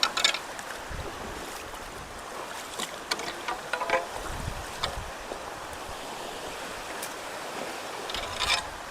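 Steady rush of rain-swollen water running through culverts, with a few short knocks or rustles in between.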